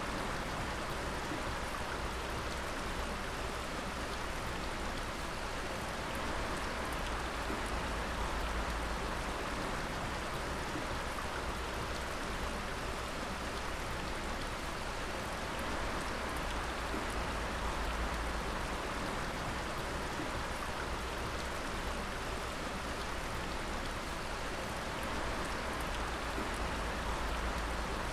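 Water dripping and pattering steadily onto wet rock and water, a dense, even patter like rain, with a faint trickle under it.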